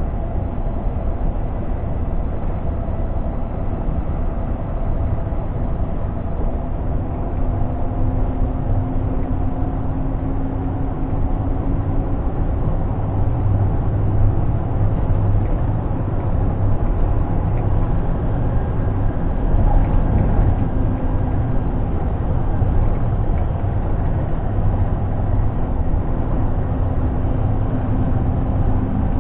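Scania G460 truck's 13-litre six-cylinder diesel engine running steadily under way, a continuous low drone with road noise and faint tones that drift slowly in pitch.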